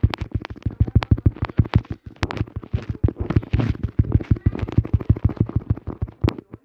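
A fast, irregular series of sharp clicks or knocks, about eight to ten a second, that stops shortly before the end.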